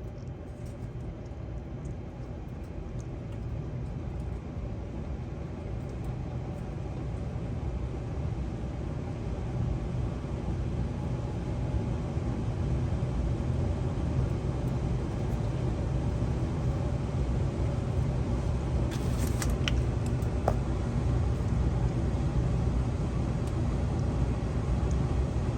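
Gas furnace running at startup: a steady low rumble of burners and blower that grows gradually louder.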